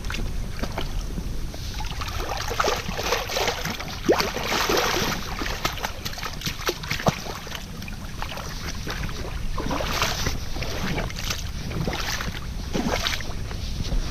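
Rustling of rubber rainwear and footsteps as someone walks in pouring rain, with a steady low wind rumble on the microphone.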